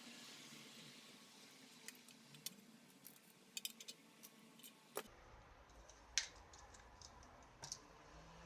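Faint, scattered light clicks and taps of small hard parts being handled, over a low hiss, with the sharpest clicks about five and six seconds in.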